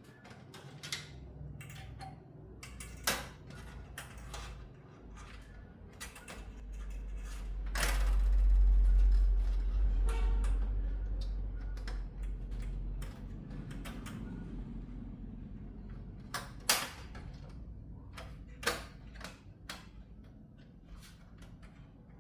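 Scattered light clicks and knocks of hands and tools handling parts during repair work, with a low rumble that swells in the middle and fades away.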